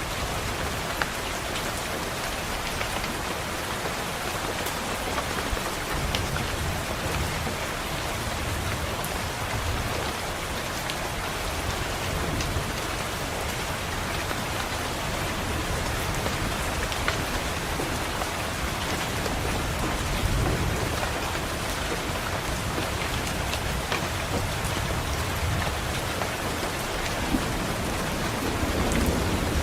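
Steady rain pattering on a window, with low thunder rumbling now and then and a louder roll of thunder near the end.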